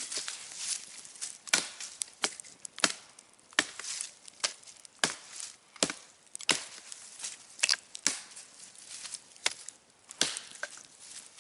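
Wood being chopped with a heavy blade: sharp, irregular strikes, roughly one every half second to a second.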